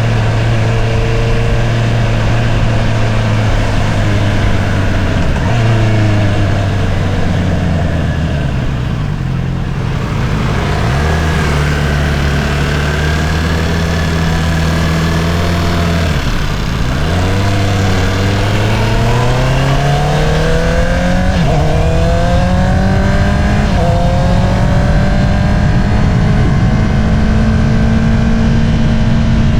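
2022 Honda CBR650R's inline-four engine running through an Akrapovič single-outlet exhaust while riding. The engine note drops and holds steady through the first half, dips sharply about halfway, then climbs through two quick gear changes before settling into a steady cruise near the end.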